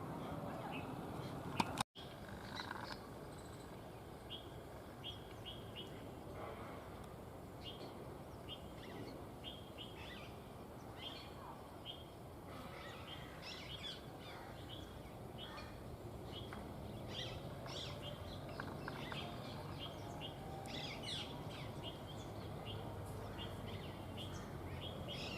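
Small birds chirping repeatedly in short high notes over a steady outdoor background hum. A sharp click and a moment's dropout come about two seconds in.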